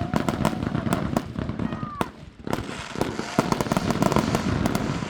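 Fireworks going off: a dense run of rapid crackling pops over a low rumble, with a couple of louder bangs about two and two and a half seconds in.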